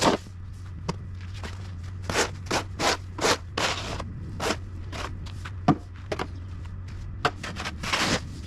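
Footsteps crunching through fresh snow: short crunches, irregular but about two a second, over a steady low hum.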